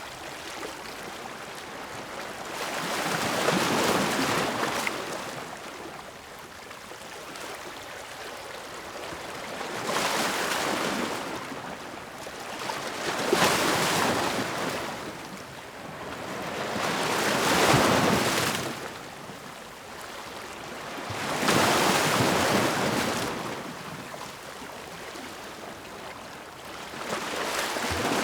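Ocean waves breaking and washing in. Each surge swells and fades again, about six of them three to six seconds apart, with a low constant wash of surf between.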